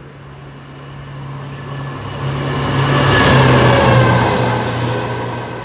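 A train passing through the station at speed, growing louder to a peak about three and a half seconds in and then fading, with a whine that falls in pitch as it goes by.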